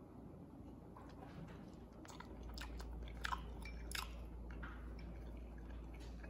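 A person chewing a mouthful of braised bowfin fish, with a scatter of faint, short wet mouth clicks, most of them from about two to four seconds in.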